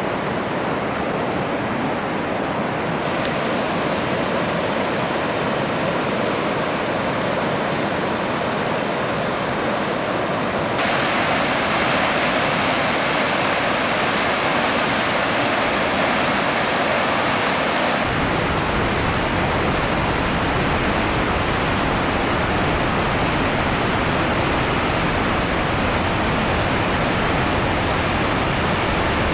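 Steady roar of rushing water from a waterfall, its tone shifting abruptly three times.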